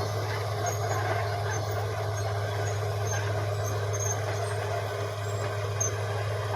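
Caterpillar D6R XL bulldozer's diesel engine running steadily with a low, even hum.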